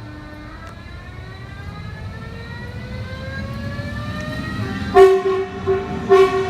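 Electric train approaching, its traction motors giving a whine that rises slowly in pitch as the sound grows louder. A loud horn blast comes about five seconds in, with another just after six seconds.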